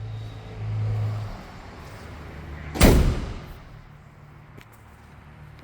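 A pickup truck's door slammed shut once, about three seconds in, after a low hum in the first second.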